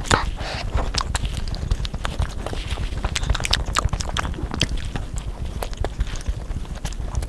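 A person chewing and eating food close to the microphone: irregular wet mouth clicks and smacks at a fast, uneven pace.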